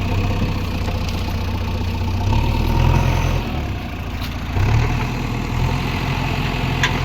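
Heavy diesel engine of earth-moving machinery running steadily, swelling louder twice, about two and a half seconds in and again near five seconds, as it takes load. A short click near the end.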